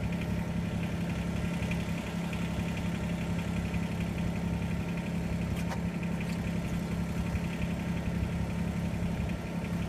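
Steady mechanical drone of a running motor, unchanging throughout, with a few faint ticks.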